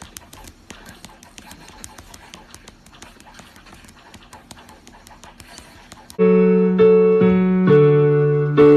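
Faint, irregular light clicking, then about six seconds in a loud electric-piano passage starts abruptly, playing sustained chords that change about every half second.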